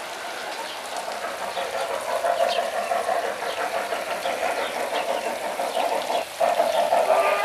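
G-scale model train running on garden track: a steady electric-motor hum, with faint clicks from the wheels over the rail joints. The sound dips briefly near the end.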